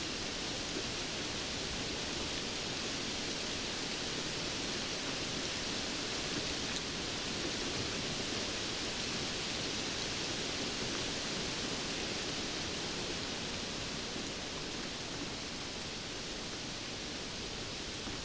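Steady rainfall: an even hiss of rain with no distinct drops or thunder standing out.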